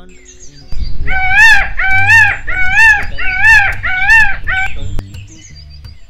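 A bird calling loudly about five times in quick succession, starting about a second in; each call is about half a second long, clear-pitched and arched, rising then falling.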